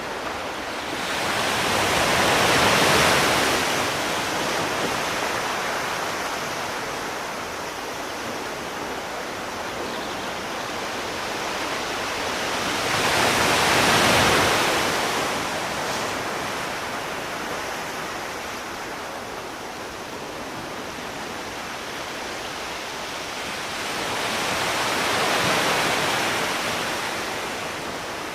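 Sea waves breaking and washing onto a shore: three slow surges, about eleven seconds apart, over a steady hiss of surf.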